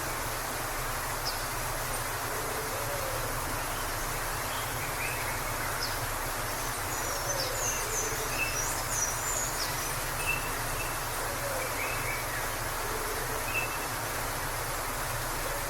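Steady rush of a waterfall, with faint bird chirps and a few soft lower calls coming now and then over the noise of the water.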